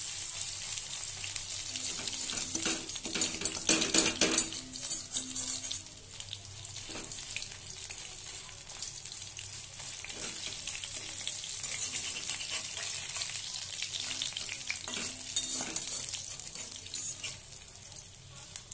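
Batter-coated pointed gourd leaf fritters sizzling in hot oil in a metal karahi, with a steady hiss. A spatula scrapes the pan and turns them, loudest about three to four seconds in and again briefly near the end.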